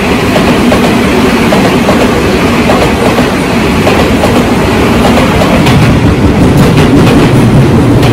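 Tobu Tojo Line electric commuter trains: a Tobu 9000 series train pulling in along the platform while another train stands or moves on the track beside it. A loud steady rumble deepens from about five and a half seconds in as the arriving train draws near, with wheels clacking over rail joints.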